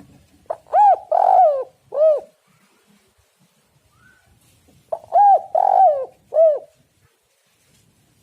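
Spotted dove cooing: two phrases of about four coos each, the first starting about half a second in and the second about five seconds in, each phrase with short notes around a longer, slurred middle coo.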